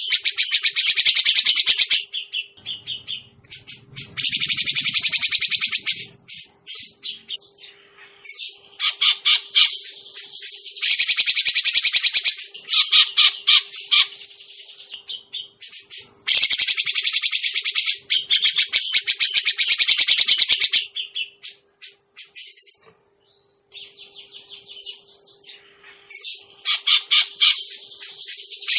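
Cucak jenggot (grey-cheeked bulbul) calls played as a bird-trapping lure: loud bursts of rapid chattering, each two to four seconds long, repeated about six times with short gaps and softer scattered notes in between.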